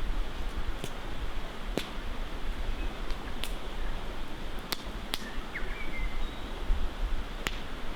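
Wood fire crackling: a handful of sharp, single pops spread out over a few seconds, over a steady rush of flowing river water.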